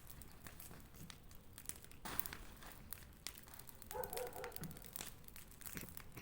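Bonfire crackling, with irregular sharp pops and snaps.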